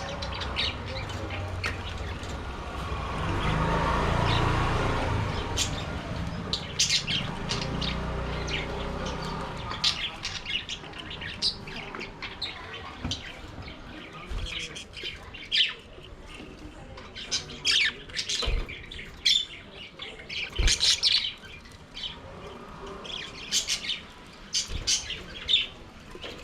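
Flock of budgerigars chirping and squawking in many short, quick calls. A low rumble swells and fades over the first ten seconds, and a few soft thumps come in the second half.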